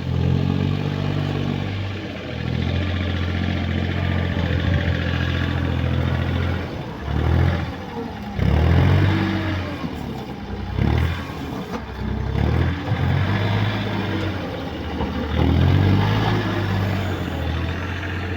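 Tractor engine running and revving up and down several times, its pitch rising and falling with each surge, as it works under load.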